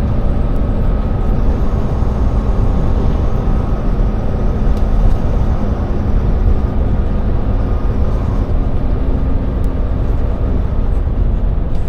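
Semi-truck tractor driving, heard from inside the cab: a steady, deep rumble of engine and road noise.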